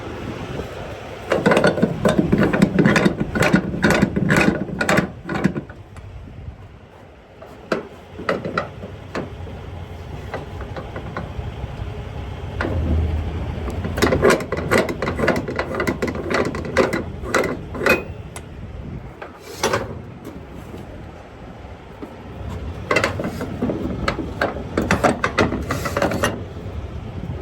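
Cargo strap ratchet being worked to tighten a load strap on a flatbed: three bursts of rapid ratcheting clicks, with scattered single clicks between.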